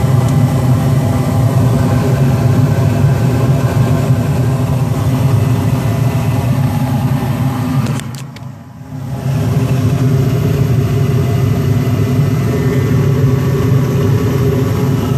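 Gas wall heater's burners lit and running with a loud, steady low rumble after a new spark ignition module was fitted. The sound drops away briefly about eight seconds in, then returns.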